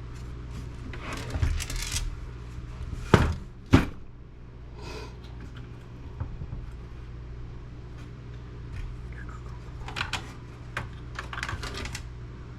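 Metal and plastic parts of a desktop computer case being handled during disassembly: some clatter, two sharp knocks about three seconds in, and light clicks near the end, over a steady low hum.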